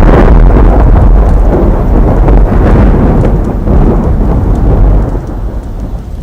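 JR 215 series model train running on the track close to the microphone: a loud, dense rumble with faint clicks, dropping off about five seconds in.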